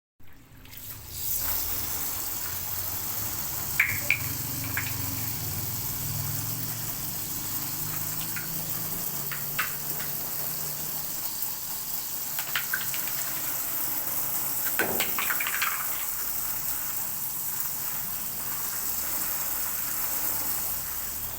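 Water running or spraying steadily over an electric fan being washed, with a few light knocks along the way.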